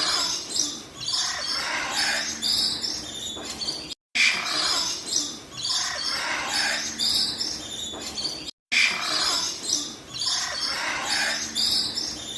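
Birds chirping and calling in quick short notes, with a faint steady hum beneath. The same few seconds of calls come around three times, broken by brief silent gaps.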